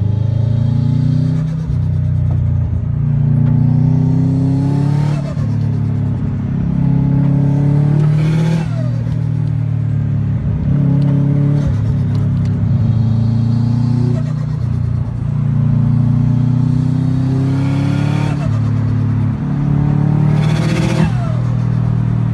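Turbocharged Subaru WRX flat-four pulling hard through the gears, the revs climbing several times, heard from inside the cabin. Each time the throttle is lifted there is a short fluttering "tsu-tsu-tsu" from the turbo: compressor surge, because the bypass valve is blocked off and the boost pressure is forced back out through the turbo.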